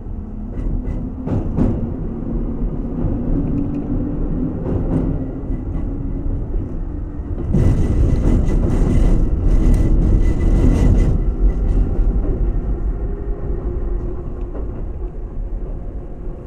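Keihan 2200 series electric train running at speed, heard from inside the car: a steady rumble of wheels on rail with a hum from the motors and gears. A few rail-joint clicks come about a second in, and a louder rushing noise swells from about 7.5 to 11 seconds.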